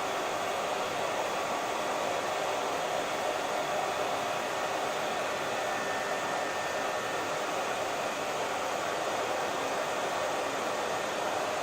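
Hair dryer running continuously: a steady, even blowing noise with no changes.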